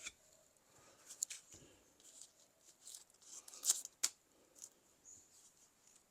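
About six brief, faint scrapes and rustles from a knife being handled during sharpening, the loudest a little past halfway.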